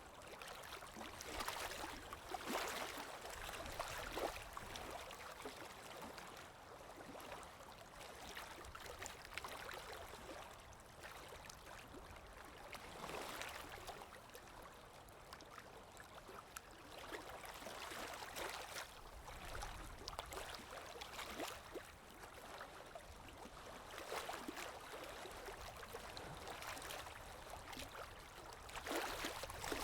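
Water lapping with wind: an even rush of noise that swells and ebbs every few seconds.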